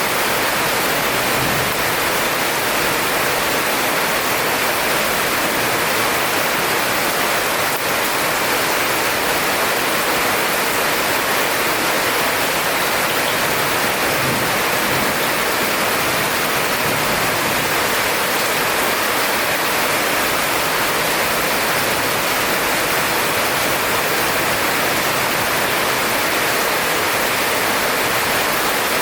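Heavy rain falling in a dense, steady hiss, even throughout, with no thunderclap in this stretch.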